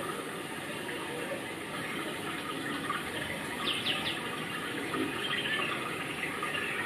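A bird calling, three quick descending high chirps a little past halfway, over a steady rushing background noise.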